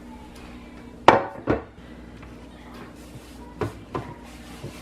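Hard objects knocking: four sharp clacks in two pairs, about a second in and again near the end, over a steady low hum.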